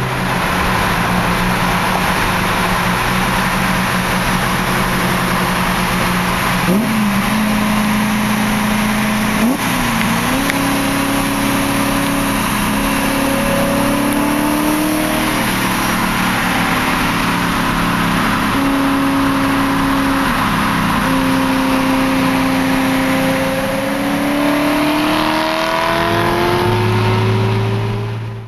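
BMW E90 M3's V8 running through its stock exhaust with the electronic cutouts open, driven under way. The engine note drops at gear changes about seven and ten seconds in, holds steady, climbs again near the end, then cuts off suddenly.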